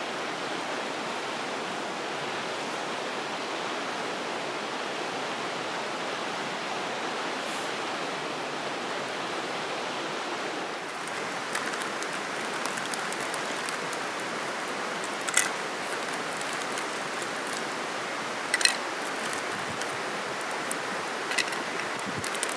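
Steady rushing of a stream. A few sharp clicks or snaps from about halfway on.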